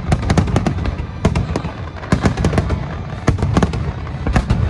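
Aerial fireworks shells bursting in a rapid barrage: sharp bangs several times a second over a continuous low rumble of echoing explosions.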